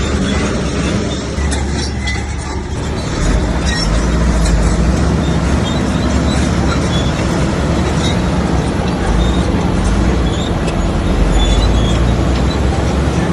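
Old Komatsu bulldozer's diesel engine running steadily under load, with scattered clanks; it grows louder about three seconds in.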